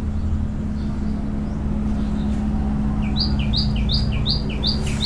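A small bird calls a quick repeated two-note phrase, a high note and a lower one, about three times a second, starting a little past halfway. Under it runs a steady low hum.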